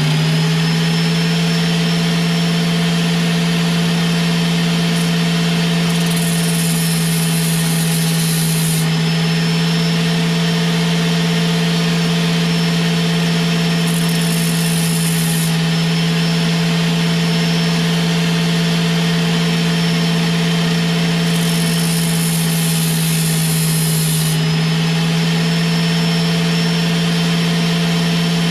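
An electric grinding tool running at steady speed with a high whine, grinding the end cap off a fuel injector. The hiss of grinding contact comes three times: about six seconds in, around fourteen seconds, and again from about twenty-one to twenty-four seconds.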